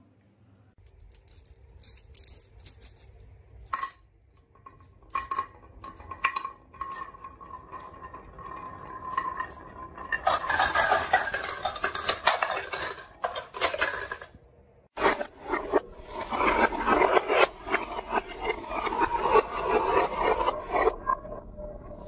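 Marbles rolling and clattering down a marble run track. There are scattered clicks at first, then two long stretches of rapid rattling, from about halfway through and again after a brief pause.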